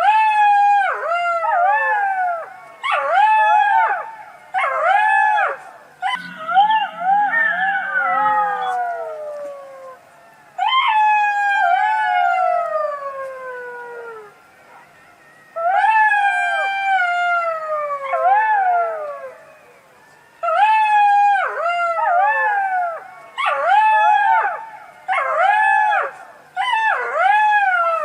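Fox calling: bouts of short, arching, high-pitched yelps, broken by a long falling wail about ten seconds in and two more falling calls a few seconds later.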